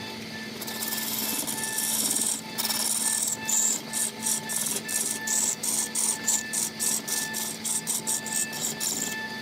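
Wood lathe gouge cutting into a large spinning block of wood, a loud hiss of shavings being peeled off. The cut starts about half a second in and, from about two and a half seconds, comes in quick pulses about three times a second.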